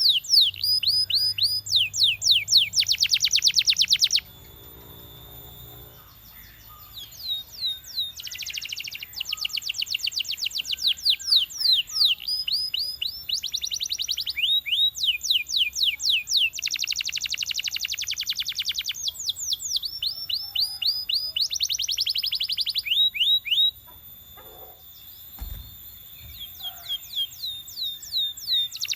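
Belgian canary singing in phrases of very fast high trills and sweeping, rolling notes. The song pauses twice for about two seconds, once a few seconds in and once near the end, and a short low thump comes near the end.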